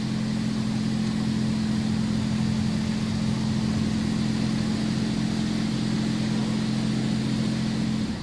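Automatic car wash machine running, heard from inside the car: a steady pump hum with water spray hissing against the car, which cuts off suddenly near the end.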